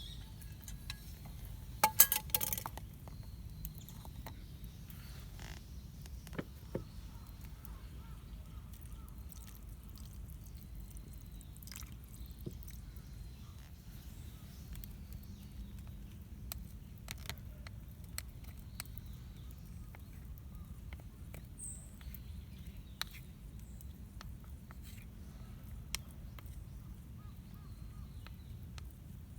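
Quiet outdoor ambience with a steady low rumble and scattered small clicks and crackles, a cluster of louder knocks about two seconds in, and a short bird chirp late on.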